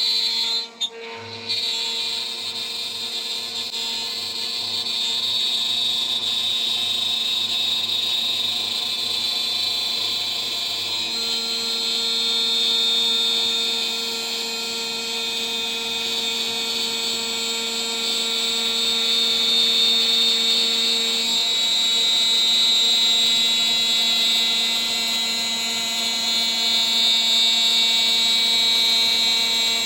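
DIY CNC router's spindle running at about 14000 RPM, a 3 mm three-flute end mill cutting a mount: a steady high-pitched machining whine, briefly dipping about a second in.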